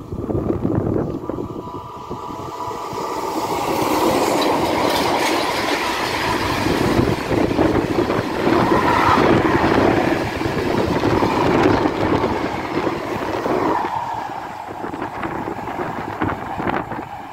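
Freight train hauled by electric locomotive BB 22277 approaching and passing close by with a rake of hopper wagons. The sound builds over the first few seconds into a steady loud rumble of wheels with rapid clatter over the rail joints. Near the end the sound drops away to something thinner and more distant.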